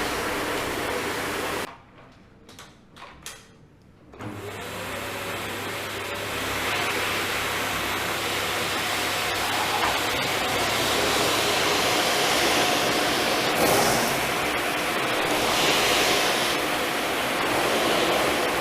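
Philips vacuum cleaner running, then switched off about two seconds in. After a couple of seconds of quiet with a few small clicks, its motor starts again with a rising whine and runs steadily at full speed.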